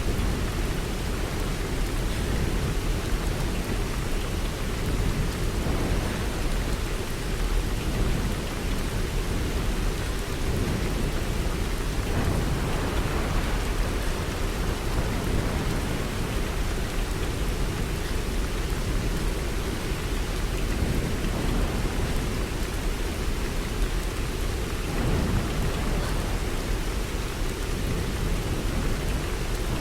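Storm noise: steady heavy rain over a continuous low rumble, with no distinct thunderclaps or impacts.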